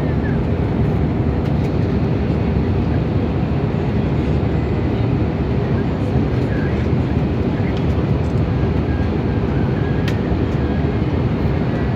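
Steady, even cabin noise inside an Airbus A320neo airliner in flight: the low rush of the engines and airflow, heard from a window seat near the front, with faint steady tones higher up.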